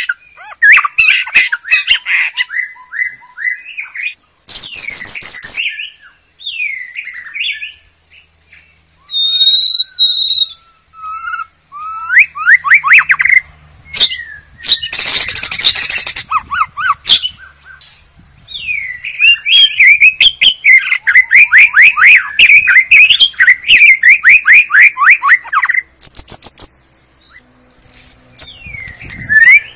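White-rumped shama singing a long, varied song: clear whistled glides, rapid trills and chattering runs in phrases separated by short pauses, with a harsh rasping burst about halfway through.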